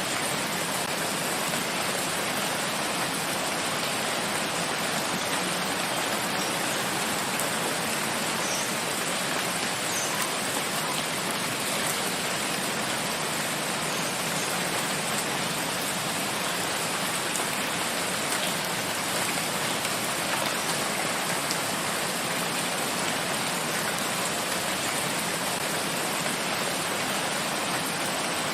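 Steady heavy rain falling in a forest, an even unbroken hiss of drops with no breaks or changes.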